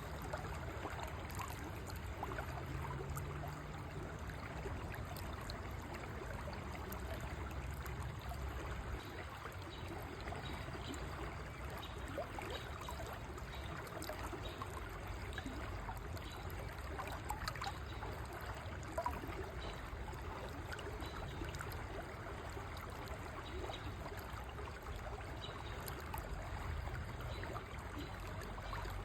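River water flowing over stones, a steady babbling stream sound.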